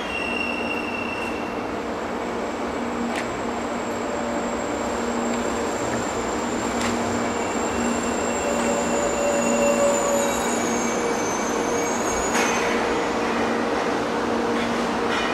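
300 Series Shinkansen train running on the track: a steady rumble with a constant hum and a high whine that sags slightly about ten seconds in. There are a few faint clicks along the way.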